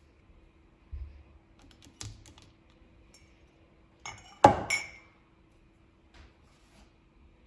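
Kitchenware being handled: a soft knock about a second in, a light tap at two seconds, then a loud clatter of dishes or utensils with a ringing clink about four and a half seconds in.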